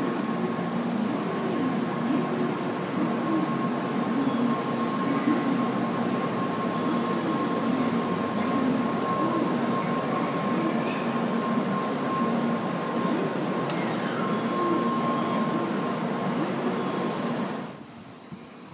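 Shinkansen bullet train running alongside the platform: a steady loud rumble of wheels and running gear with a thin steady whine over it. It cuts off suddenly near the end.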